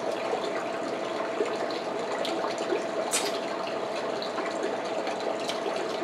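A steady rushing background noise with a faint hum, and a few sharp clicks and cracks of king crab shell being broken and picked apart while eating, the strongest about three seconds in.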